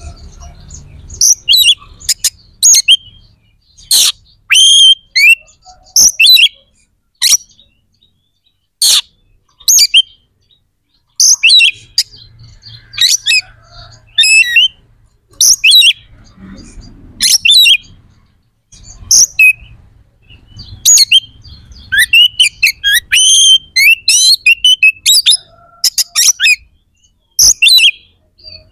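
Oriental magpie-robin (kacer) singing: loud, short bursts of sharp, high whistled and chattering notes, broken by pauses of a second or so.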